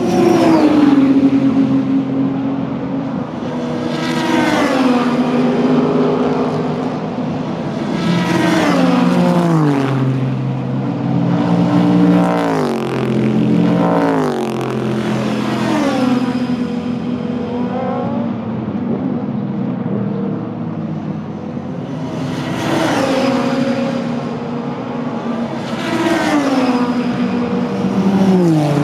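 Super GT race cars running past at speed one after another, engines rising and falling in pitch. The pitch drops in clear steps as they shift down, with the loudest passes about every four seconds.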